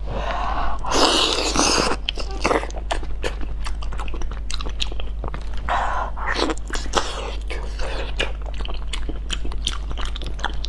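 Close-miked biting and wet chewing of a large piece of sauce-glazed eel, with many small mouth clicks and smacks and a louder stretch about a second in.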